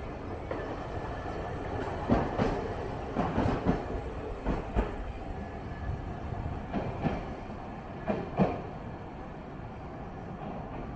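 Hiroshima Electric Railway streetcar running on its tracks: a steady low rumble with irregular clanks of the wheels over the track, the loudest about two and eight seconds in.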